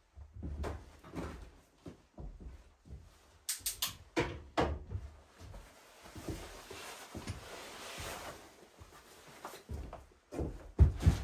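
Irregular knocks and thumps of objects being handled, with a quick cluster of sharp clicks about three and a half seconds in, a stretch of rustling through the middle, and the heaviest thumps near the end.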